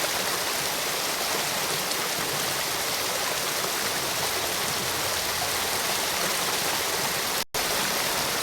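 Steady rushing of a waterfall, an even wash of water noise heavier in the highs, which drops out for a split second about seven and a half seconds in.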